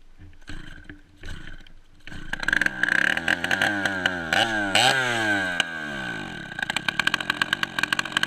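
Dirt bike engine running with no back pressure from its damaged exhaust: after a few thuds it runs from about two seconds in, is revved up and down twice, then settles into a fast, rough string of pops near the end.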